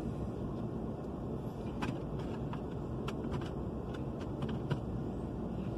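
Steady low rumble of a vehicle idling, heard from inside the truck cab, with a few faint clicks and taps scattered through it.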